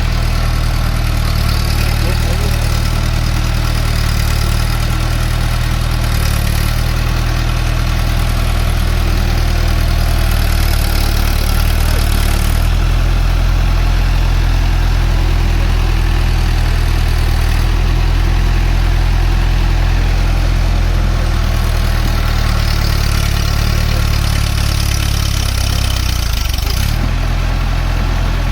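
Tractor's diesel engine idling steadily, a low, even running with no change in speed.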